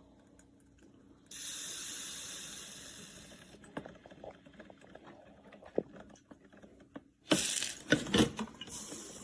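Water hissing in two bursts, one starting suddenly about a second in and a louder one near the end, with a few small clicks and knocks between and during them.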